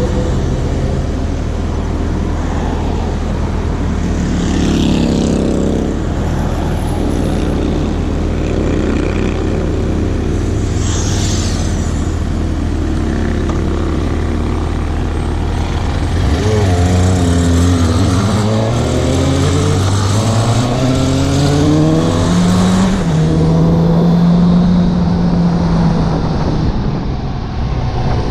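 Suzuki GSX750 inline-four motorcycle engine running steadily at low revs, then from a little past halfway revving up several times in a row as it accelerates through the gears. It settles into a steady higher note while cruising, with wind rushing over the microphone.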